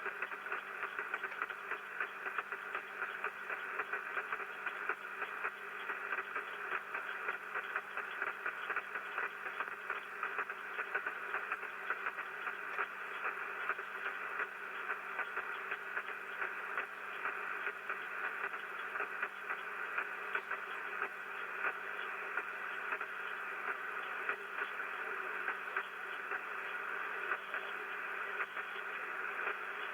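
HF radio receiver hissing and crackling with rain static (QRN) picked up on a Yagi antenna: a dense run of rapid clicks over a steady hiss, heard through the receiver's narrow audio passband.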